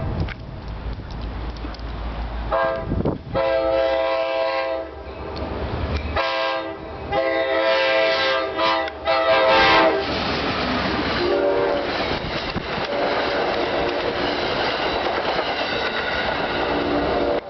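NJ Transit commuter train approaching at speed and sounding several long blasts of its horn. It then rushes past with a steady rumble and the clatter of its wheels on the rails.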